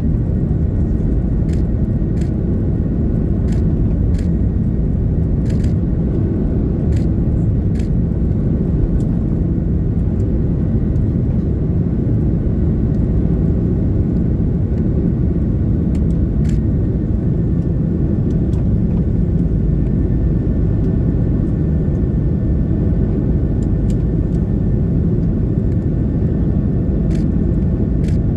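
Steady, loud cabin rumble of an Airbus A330-300 powered by GE CF6-80 engines, with faint steady high tones and a few brief clicks.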